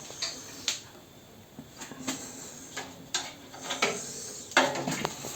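Scattered clicks, light knocks and short scrapes of metal pellet-stove parts being handled and cleaned by hand. The loudest is a brief scrape about four and a half seconds in.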